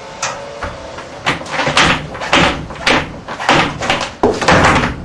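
Someone stepping repeatedly on a large 8-inch flexible vacuum hose: about eight scuffing thumps, roughly two a second, starting about a second in.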